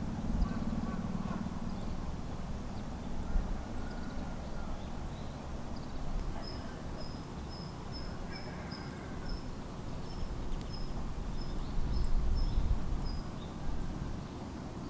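Outdoor ambience with a steady low rumble, over which a bird repeats a short, high, thin note about twice a second for several seconds in the middle, with a few fainter chirps around it.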